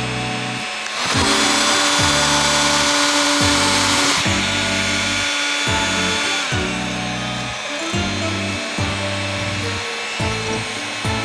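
A power tool runs for about three seconds, then winds down, over background music with a steady beat.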